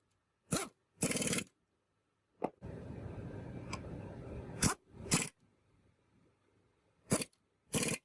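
Workshop work on metal tractor gearbox parts: a string of short scraping and knocking sounds, with a steady scraping noise lasting about two seconds in the middle, cut together with dead silence in between.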